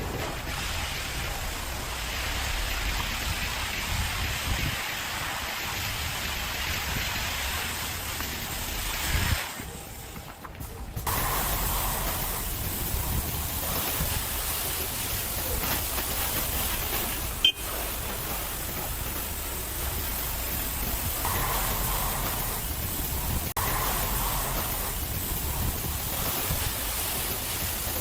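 Car wash spraying water and foam: a steady hiss that drops away briefly about ten seconds in, with one sharp click midway.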